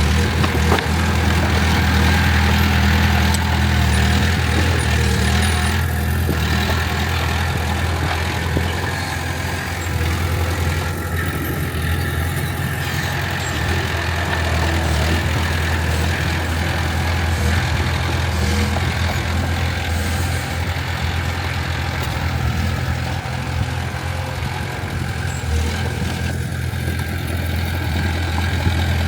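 Heavy diesel earth-moving machinery running steadily, a deep engine hum that holds an even speed.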